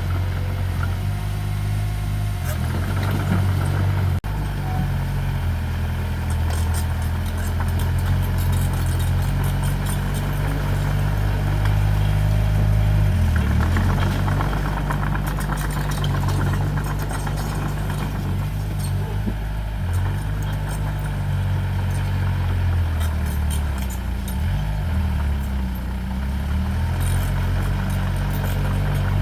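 Diesel engine of an earthmoving machine running steadily, its pitch shifting briefly about halfway through and again a few seconds before the end, with faint clicking and clanking over it.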